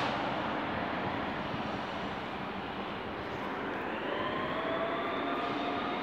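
An SNCF BB 22200 electric locomotive and its TER coaches rolling along the platform track, the rumble of the wheels fading as the train moves away. About four seconds in, a high, steady multi-tone squeal sets in as the train's brakes bring it to a stop.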